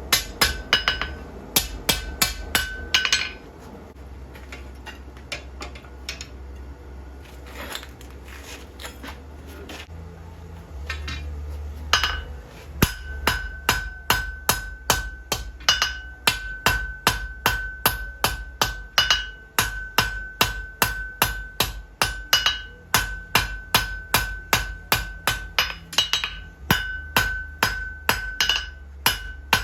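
Blacksmith's hammer striking on an anvil, each blow ringing. A quick run of blows, a lull with a few scattered strikes, then steady hammering about twice a second from about twelve seconds in, over a low steady hum.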